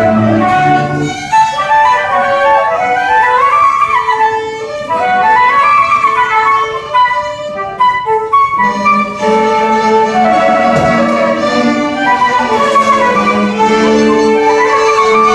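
Orchestral music: a flute and violins play a rising and falling melody over long held notes in the lower strings.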